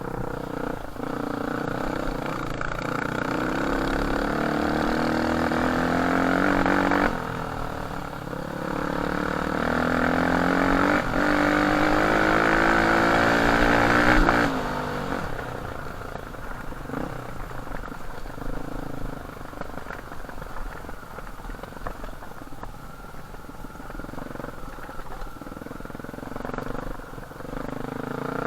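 Off-road dirt bike engine pulling hard: the revs climb for several seconds, drop sharply at a gear change about seven seconds in, and climb again until about halfway through. Then the engine falls back to lower, uneven running with small throttle changes.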